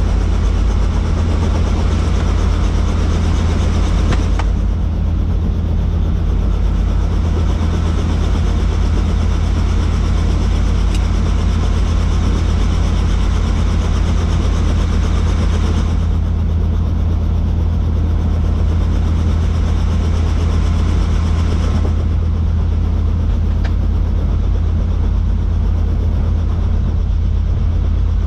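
Helicopter running with a steady, loud low drone of rotor and turbine engine. The higher part of the noise dips a few times without a break in the drone.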